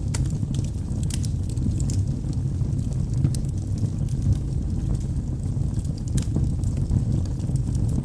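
Wood fire burning in a fireplace: a steady low rumble from the flames, with scattered, irregular crackles and pops from the burning logs.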